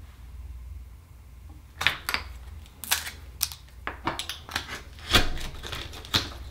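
A quick, irregular run of sharp clicks and scrapes as an akoya oyster is pried open, its hard shell knocking and grating against a metal tool. The clicks start about two seconds in and end shortly before the end.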